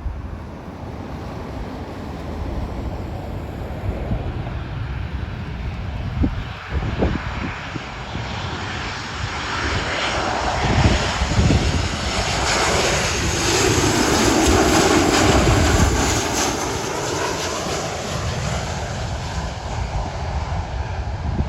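Jet airliner's engines passing close by, building to a loud peak about two-thirds of the way through and then easing off, with a sweeping change in pitch as it goes past. Low rumble of wind on the microphone underneath.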